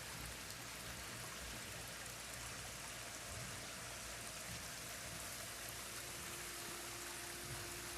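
Water from a backyard rock waterfall running steadily into its pond.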